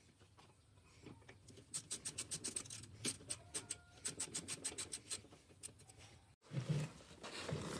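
A run of quick, irregular light clicks and scraping, several a second, over a quiet background. A brief faint hen cluck comes near the middle. Near the end the sound cuts out abruptly and a louder, busier mechanical sound takes over.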